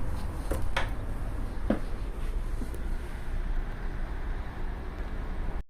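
Steady low rumble of outdoor background noise, with a few short knocks in the first two seconds; it cuts off abruptly near the end.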